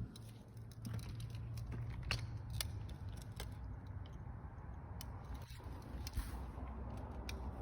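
Scattered faint clicks and ticks over a low steady hum.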